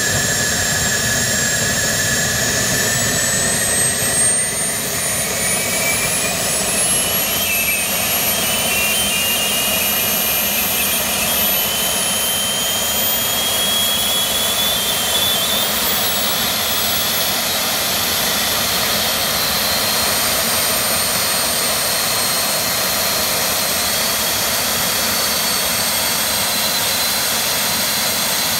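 JetGyro's small turbine jet engine on its first start, running loudly. Its whine rises in pitch over the first half as the turbine spools up, then holds steady.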